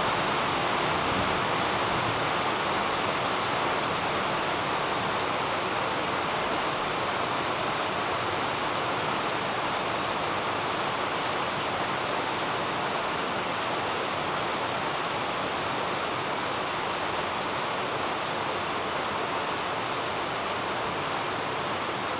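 Thunderstorm rain falling steadily, an even hiss with no thunderclaps, fading slightly over the stretch.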